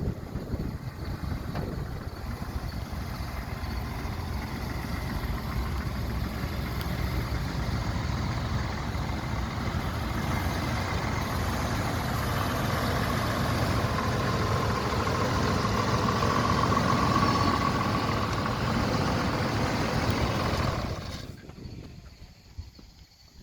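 1987 Dodge Dakota 4x4 pickup's engine running, growing steadily louder, with a faint whine partway through, then falling away sharply near the end.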